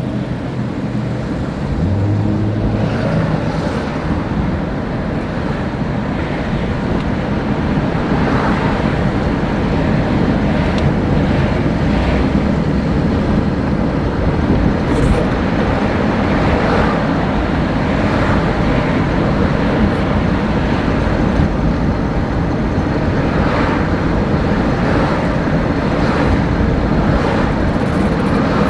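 Steady car driving noise: an engine and tyre rumble on the road that keeps going without a break.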